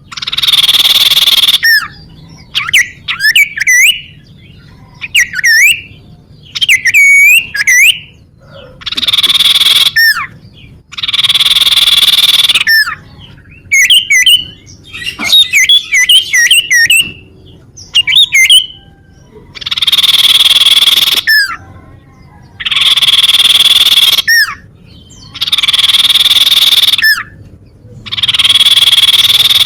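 Common iora (cipoh) calling loudly: long, harsh, hissing notes of a second or two, repeated, alternating with quick whistled notes that bend up and down.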